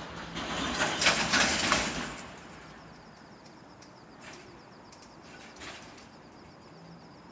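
JR Freight EF210 electric locomotive running light, with no wagons, passing by: a rush of wheel and air noise that swells about a second in and dies away by about two seconds in. A few fainter short noises follow.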